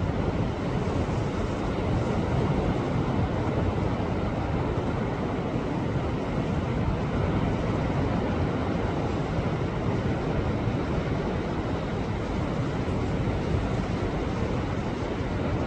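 Sea waves washing against shore rocks: a steady, low rushing surf with no distinct breaks.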